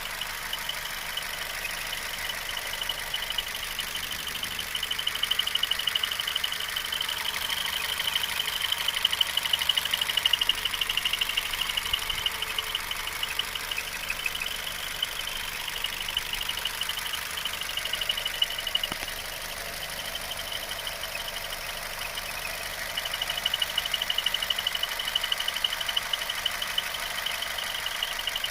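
2002 Nissan Altima four-cylinder engine running with a high-pitched steady squeal that has a fast flutter and swells and fades in stretches. The owner suspects it comes from the alternator or its drive belt.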